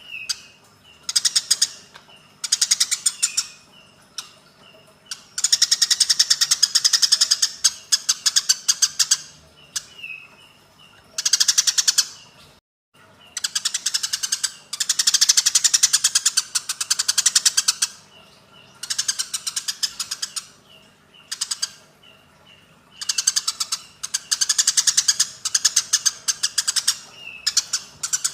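Eurasian tree sparrows fighting: bursts of fast, harsh chattering notes, each run lasting one to three seconds with short pauses between.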